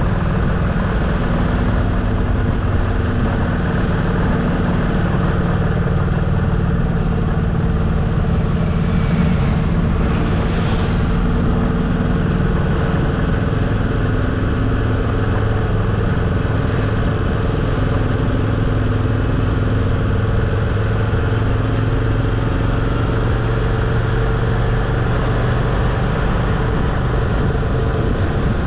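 Motorcycle engine running at a steady cruise, its pitch drifting only slightly, over constant road and wind noise.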